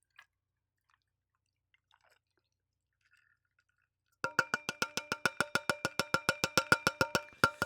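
Near silence for about four seconds, then a glass is clinked rapidly and evenly, about nine clinks a second, each ringing at the same pitch.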